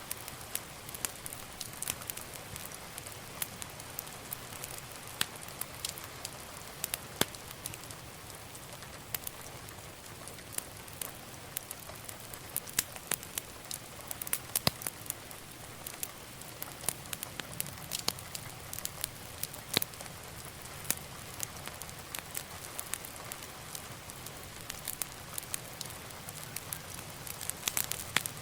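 Wood fire crackling: a steady hiss of burning logs with many sharp, irregular pops and snaps.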